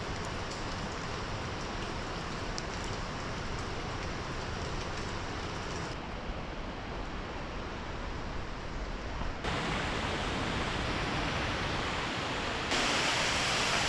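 Waterfall: a steady rush of falling water, stepping up abruptly louder and brighter about nine seconds in and again near the end.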